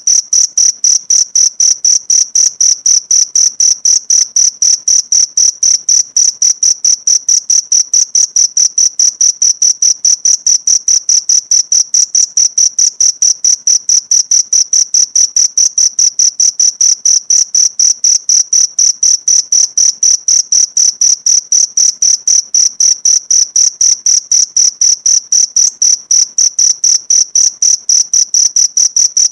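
A cricket chirping without pause: a high, clear chirp repeated in a fast, even rhythm.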